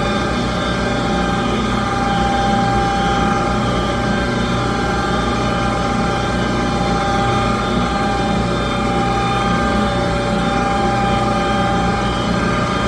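Gas furnace's fan motor running with a steady hum and whine during an ignition attempt in which the burners fail to light, a fault the owner puts down to either no gas reaching the burners or an igniter not glowing hot enough.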